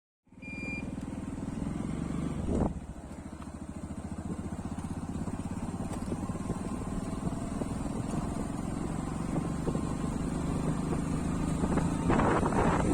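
Small vehicle engine running steadily, heard from on board as it travels. Wind noise on the microphone grows louder in the last second or so.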